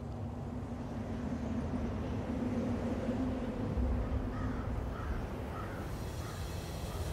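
A crow-like bird gives four or five short cawing calls in quick succession, starting about four seconds in. Under them runs a low steady rumble, with a held low hum in the first half.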